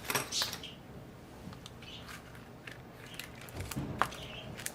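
Light clicks, taps and rustles from handling small laptop parts during a MacBook Air keyboard and backlight reassembly, with a sharper click about four seconds in.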